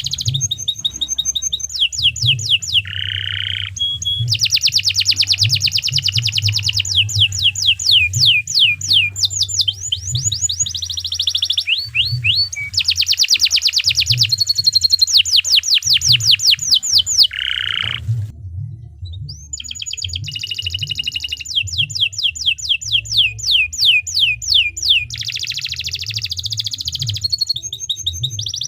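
Domestic canary singing a long, continuous song of fast trills and rolls, each phrase a rapid run of repeated notes that switches to a new phrase every second or two, with one short break about two-thirds of the way through.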